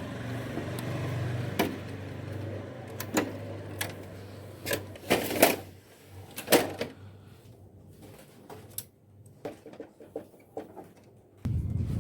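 A low machine hum that fades after the first few seconds, then a run of sharp clicks and knocks with a short low rumble near the end: a Canon imageRUNNER copier being worked on.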